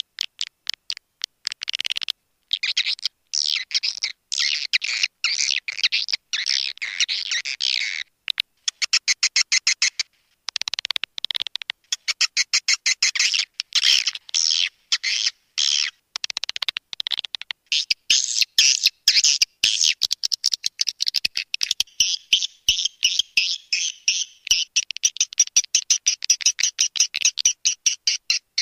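Swiftlet lure call: edible-nest swiftlets' twittering chirps and rapid clicking, played to draw swiftlets into a bird house. It comes in loud spurts broken by short silences, turning into an almost unbroken pulsing chatter in the second half.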